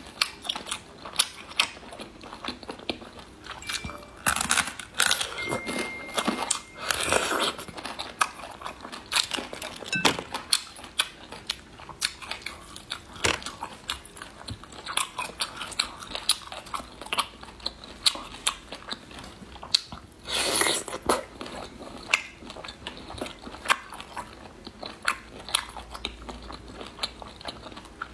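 Close-miked eating of braised snails: many quick clicks of biting and chewing on the snail meat, with a few longer, louder sounds near 5, 7 and 20 seconds in.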